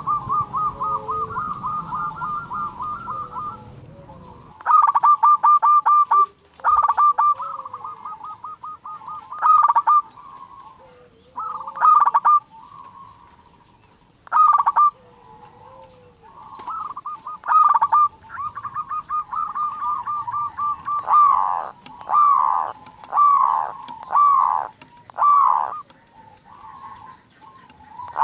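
Zebra doves (perkutut) cooing: repeated bouts of rapid staccato coos, a dozen or so in a row with short pauses between them. The last few bouts end in falling notes.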